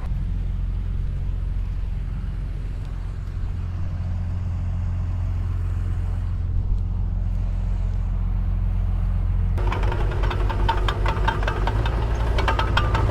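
Mini bulldozer's diesel engine running steadily with a low hum. About ten seconds in, a fast metallic clatter starts over it and the engine grows louder.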